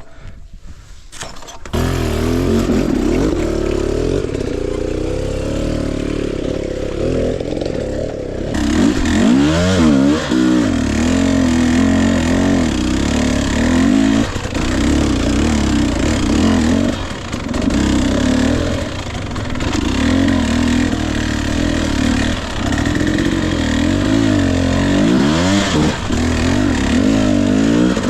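Husqvarna TE 250i two-stroke dirt bike engine starting up suddenly a couple of seconds in, running steadily, then revving up and down repeatedly from about eight seconds on as the bike is ridden.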